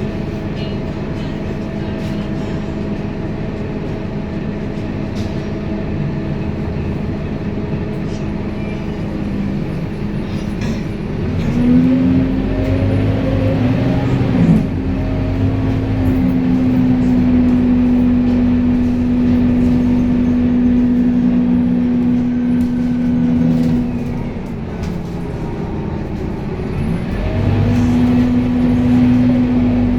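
A vehicle running with a steady motor hum and low rumble. A stronger, higher hum comes in about a third of the way through, fades briefly about three-quarters of the way in, then returns.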